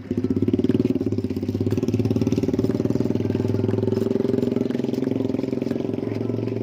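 Motorcycle engine running steadily at low revs, close by.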